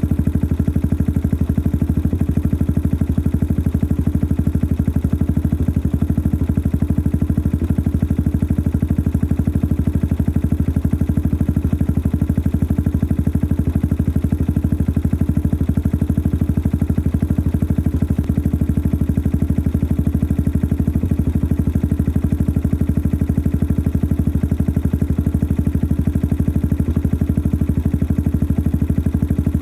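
Yamaha XT 600 43F single-cylinder four-stroke engine idling steadily through its modified stock exhaust, with a mechanically noisy engine.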